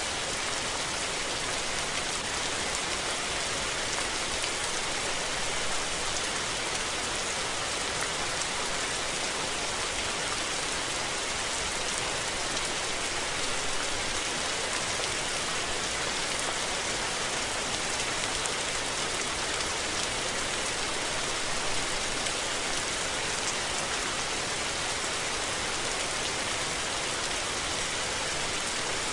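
Steady rain falling and pattering on surfaces, an even hiss of many drops with no thunder.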